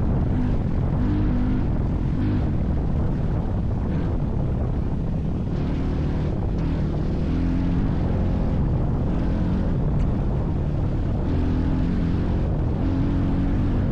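A motor vehicle's engine running steadily with a deep rumble, its pitch rising and falling every second or two.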